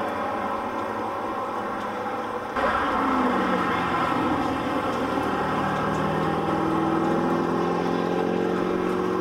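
Chevrolet Corvette V8 engines running at speed on a race track, heard from trackside. The sound changes abruptly about two and a half seconds in, and after that one engine note holds and climbs slowly.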